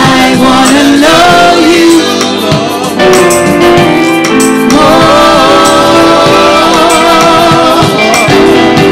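Live gospel praise-and-worship music: voices singing long held notes over a band, with steady percussion strokes.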